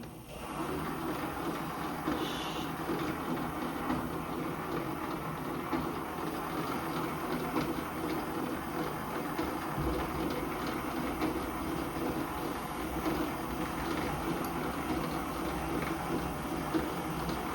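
Metal lathe starting up and running steadily, its spindle turning a faceplate-mounted part for center drilling.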